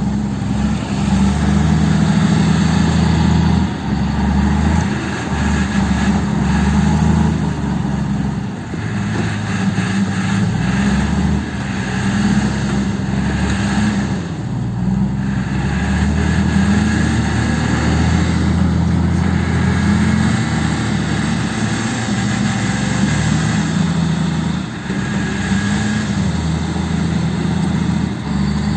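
Heavy diesel engine running, its deep note shifting up and down several times as the engine speed changes.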